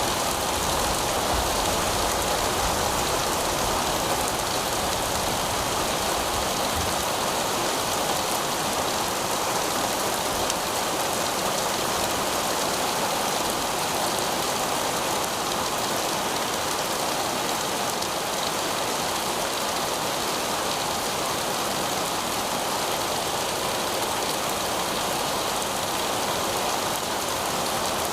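Heavy rain falling steadily on pavement, a dense even hiss of drops with no let-up.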